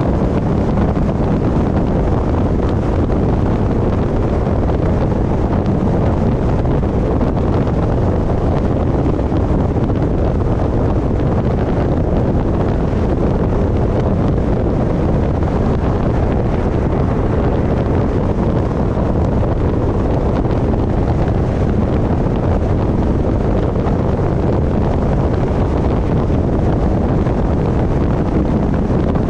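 Wind buffeting a GoPro mounted on the roof of a moving car: a loud, steady rush, heaviest in the low end and unchanging throughout.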